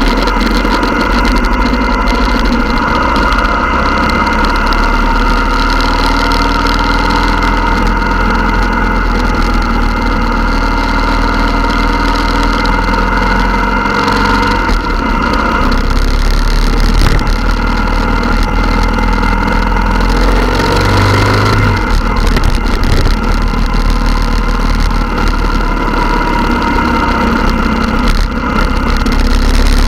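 Several motorcycle engines running together, their pitches rising and falling as they idle and rev.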